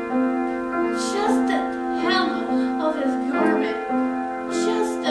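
Keyboard music with slow, held chords.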